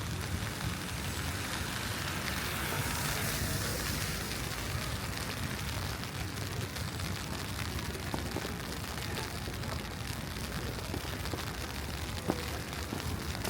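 City street ambience in falling snow: a steady low rumble under an even hiss that swells for a couple of seconds a few seconds in, with a few faint ticks later on.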